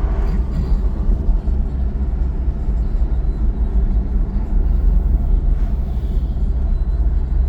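Inside a sports car at road speed: a steady low rumble of engine and tyre noise.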